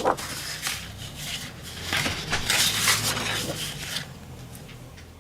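Sheets of designer series paper being handled and leafed through, rustling and crinkling in irregular bursts that die away near the end.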